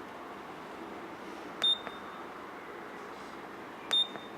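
Keypad of an MEP Shark 332NC EVO bandsaw's control panel giving two short, high beeps about two seconds apart as its buttons are pressed to step through the setup parameter pages.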